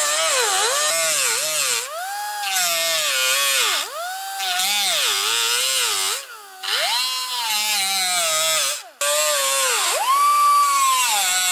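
High-speed power tool whining loudly on sheet metal, its pitch repeatedly dropping and recovering as it is pressed into the work and eased off, stopping briefly about six and nine seconds in.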